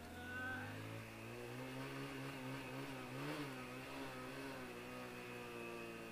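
Motorcycle engine running under throttle as the bike is ridden. It rises in pitch over the first second, then holds steady, with a brief surge about three seconds in.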